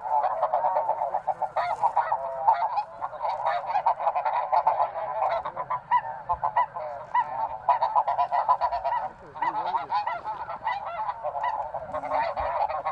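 A large flock of snow geese calling: a dense, unbroken chorus of many overlapping high-pitched honks.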